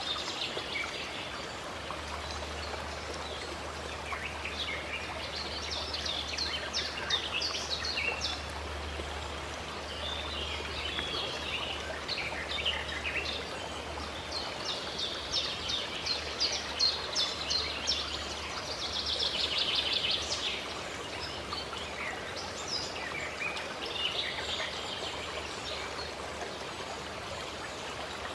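Water trickling and splashing steadily from a fountain or spring, with songbirds chirping and singing over it in quick runs of notes and a dense trill about two-thirds of the way through.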